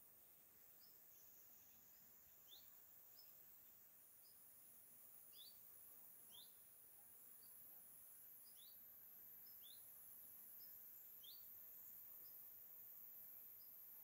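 Faint outdoor ambience: a small bird giving short rising chirps every second or two, over a steady high-pitched insect buzz.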